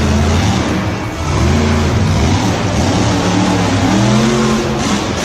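Engine revving, its pitch rising and falling several times.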